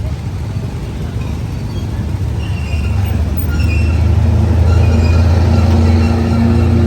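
Train approaching, its low rumble growing steadily louder, with steady tones coming in about two-thirds of the way through.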